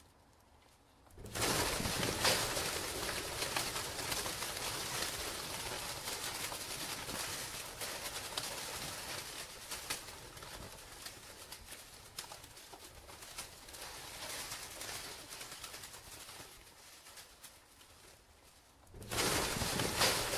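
Pigeons, heard as a busy rustling, clattering noise full of small clicks. It starts suddenly about a second in, eases off over time, and breaks off briefly near the end before starting again.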